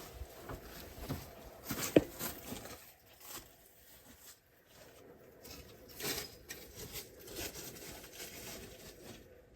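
Rustling and small handling noises of someone sorting through tools for sockets, with one sharp click about two seconds in.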